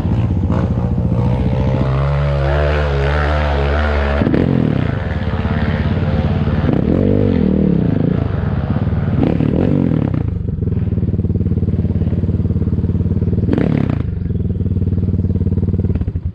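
Enduro motorcycle engine running under way. Its pitch rises and falls repeatedly in the middle as the throttle is worked, then settles to a steadier note, and it cuts off abruptly near the end.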